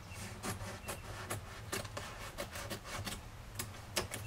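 Irregular sharp clicks and crackles of a taped vinyl lettering sheet and its paper backing being handled, a few a second, over a low steady hum.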